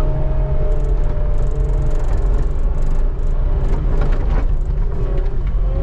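Skid steer engine running steadily with a deep drone, with a few clanks and scrapes from the machine about four seconds in.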